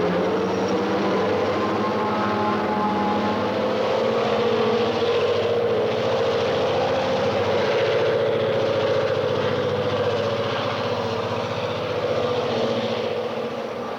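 A train running: a steady mechanical drone with several held tones over it.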